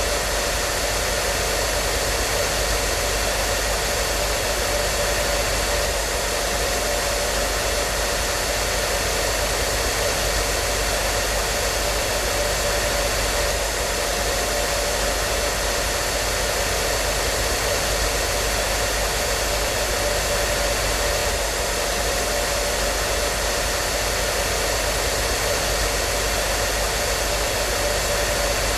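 Hair dryer running continuously at a steady speed: an even rushing hiss of blown air with a steady motor hum.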